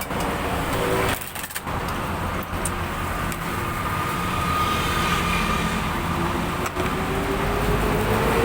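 Steady road traffic noise, with motor vehicles running past.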